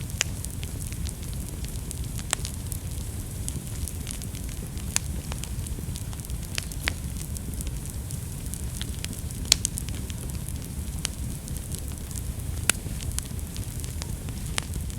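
Wood fire burning in a fireplace: a steady low rumble of flames with irregular sharp crackles and pops, the loudest pop about nine and a half seconds in.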